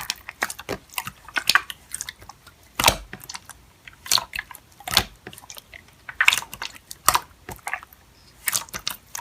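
Slime being squished and worked by hand, giving irregular sticky clicks and crackly pops.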